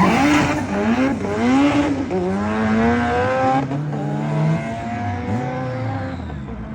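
Car engine accelerating hard, climbing in pitch and dropping back several times as it shifts up through the gears, then fading as it draws away.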